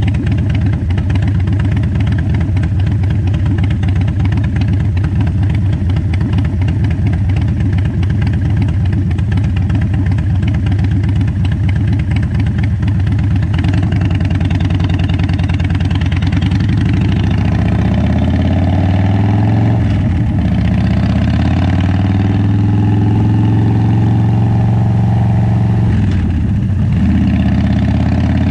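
Cruiser motorcycle engine idling with a fast, even pulse while the bike stands still. About halfway through it pulls away, rising in pitch and dropping back twice as it shifts up through the gears.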